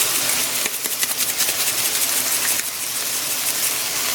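Vegetables frying in oil in a pan: a steady sizzling hiss full of fine crackles.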